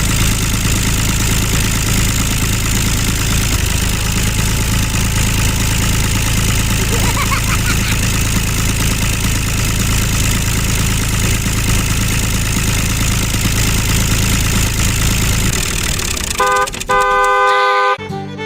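Small engine running steadily, stopping about 15 seconds in, followed near the end by a short horn-like tone.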